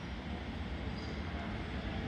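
A train approaching on the station tracks: a steady rumbling noise that slowly grows louder.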